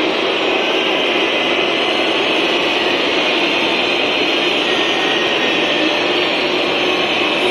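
Football crowd noise: a loud, steady din of many voices, with no single voice standing out.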